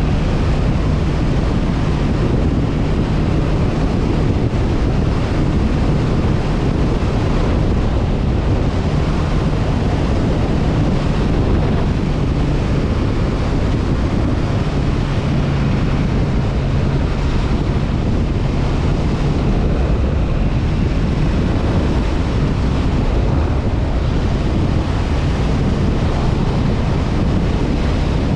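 Honda CB500F parallel-twin engine running at a steady cruise, almost buried under loud wind rush on the camera microphone.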